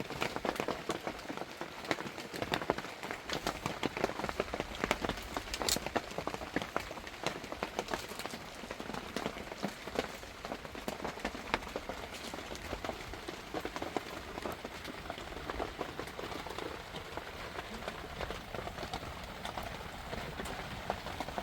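Heavy rain falling on a surface, a steady hiss thick with sharp individual drop hits that thin out a little in the second half.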